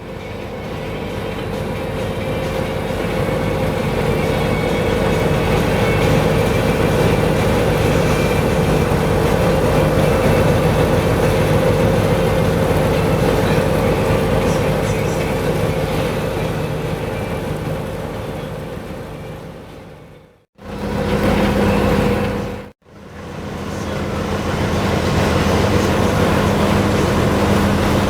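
A steady mechanical hum from a passing vehicle, with a fixed low drone and a higher one. It swells and then fades, is cut off abruptly twice near the end, and picks up again after each cut.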